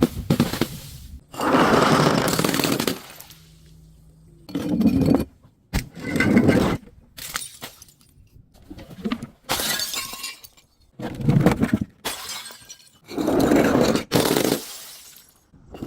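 Glass being crushed and breaking in a series of separate crunching bursts, about seven in all, each lasting around a second.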